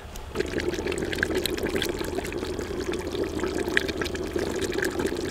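Chicken frying in cooking oil in a clay handi over a fire: steady sizzling with fast crackles, starting suddenly just under half a second in as the oil goes in.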